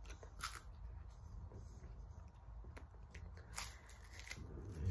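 Bites and chewing of vanilla-filled puffed corn snack rolls, with a few crisp crunches, the clearest about half a second in and another about three and a half seconds in.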